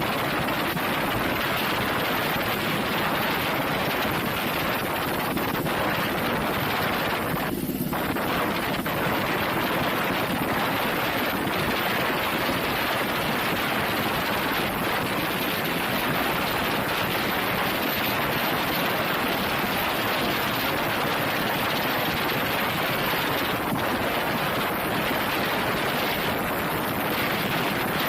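Rescue helicopter hovering, its rotor and engine making a steady, dense noise, with wind on the microphone.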